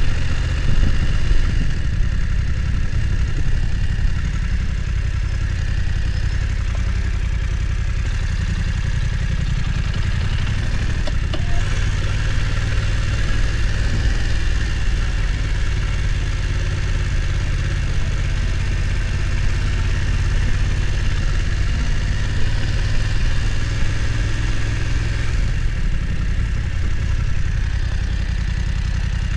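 BMW F900 XR motorcycle's parallel-twin engine running steadily at low revs.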